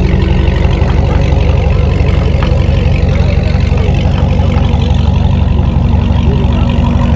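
Car engine idling close by, a loud, steady low rumble with an even pulse.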